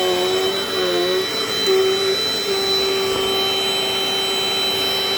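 Dirt Devil Dynamite Plus upright vacuum running, a steady motor whine with a high whistle. Its pitch dips briefly about a second in, then holds steady.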